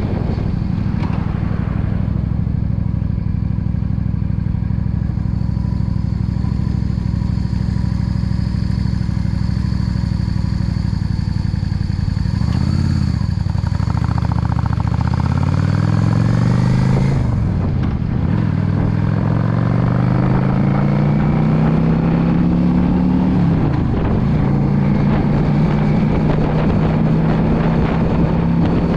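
Yamaha V Star 650 cruiser's air-cooled V-twin engine running steadily under way. About halfway through, the engine note dips and then climbs through the gears, its pitch rising and dropping sharply at two gear changes before it settles into a steady cruise again.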